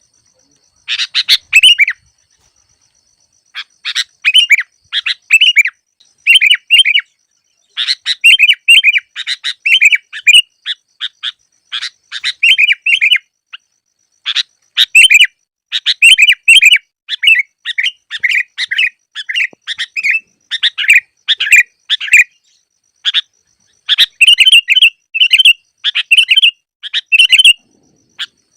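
Sooty-headed bulbul (kutilang) calling: rapid runs of short, bubbly chirped phrases one after another, with a brief pause about two seconds in.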